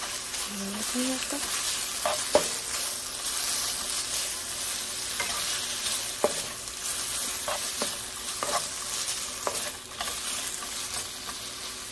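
Diced marinated chicken and garlic sizzling in hot oil in a nonstick frying pan, stirred with a spatula. A steady sizzle runs under several sharp taps and scrapes of the spatula against the pan.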